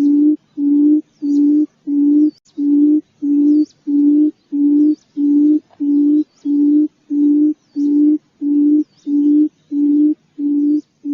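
Quail lure call: a steady series of low, even hooting notes, about one and a half per second, with faint high chirps above them.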